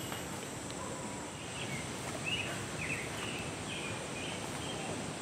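Outdoor ambience: short bird chirps repeat from about two seconds in, over a steady high-pitched hum and a light background rush.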